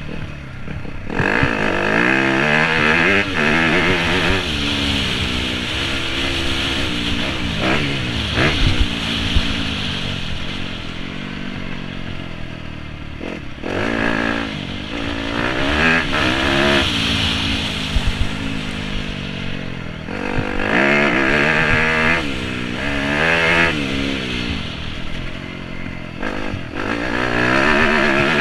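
2017 Yamaha YZ250F dirt bike with a 250 cc four-stroke single-cylinder engine, heard from on board, revving up and falling back again and again as it accelerates and backs off around the track.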